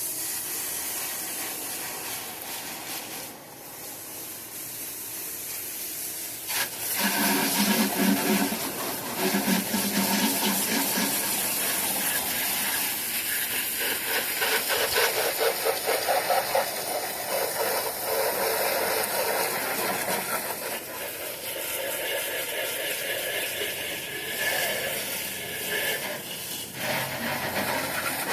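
A jet of water spraying and rinsing degreaser off a truck's engine bay, a steady hiss whose tone shifts as the spray moves over different surfaces. It starts suddenly.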